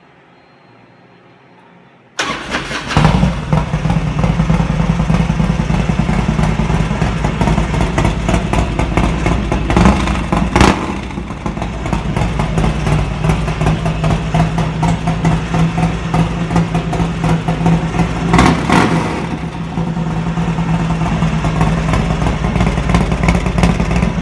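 2003 Harley-Davidson bagger with an S&S 124 cubic-inch V-twin and a Red Thunder 2-into-1 exhaust, started about two seconds in, catching at once and settling into a loud idle. The throttle is blipped a couple of times around the middle and once more later.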